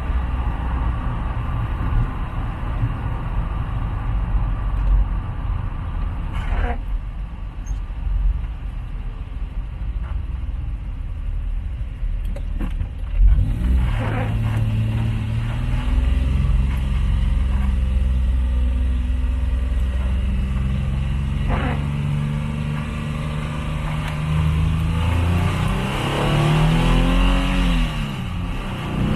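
Hawk Stratos engine heard from inside the cabin on a wet road, with tyre noise under it. It runs steadily at first, then revs rise and fall in steps near the end as the car accelerates through the gears.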